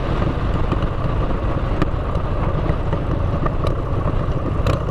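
Motorcycle with aftermarket exhaust pipes running steadily while being ridden, a dense low engine and exhaust sound, with a couple of sharp clicks.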